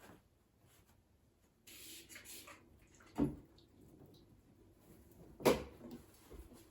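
Household cleaning sounds: a brief rustle, then two solid knocks a little over two seconds apart, the second the louder.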